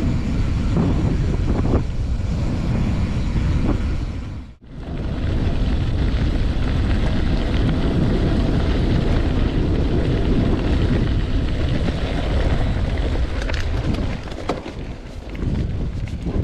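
Wind buffeting the camera microphone on a moving bicycle, a loud steady rush heaviest in the low end, with a brief dropout about four and a half seconds in and a few light knocks near the end.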